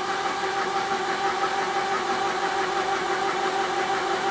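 The Jeep M170's four-cylinder F-head engine being cranked over by its starter motor, a steady whining churn that does not catch and fire, then cuts off just after the end. The engine is flooded and will not start.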